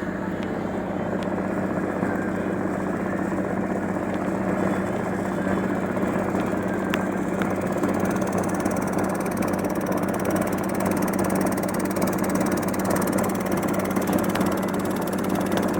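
An Amazon riverboat's engine running steadily, a constant low droning hum.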